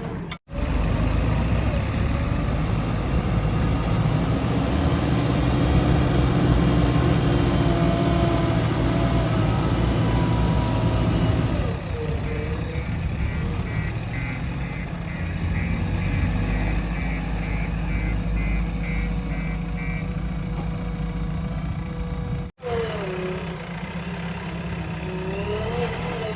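Heavy diesel engines of a JCB 3DX backhoe loader and tipper trucks working: a loud, low, steady rumble whose pitch shifts with load. From about halfway through, a vehicle's reversing alarm beeps about twice a second for several seconds.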